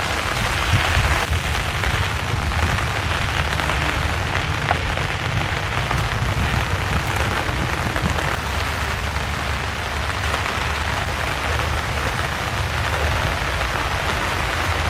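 Heavy rain falling steadily, an even hiss of drops on surfaces with a low rumble beneath it.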